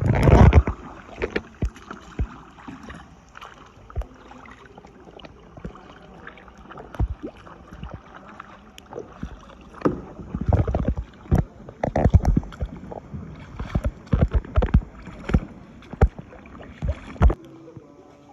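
Kayak being paddled: irregular paddle strokes and splashes, with sharp knocks of the paddle against the kayak, coming thickest in the second half.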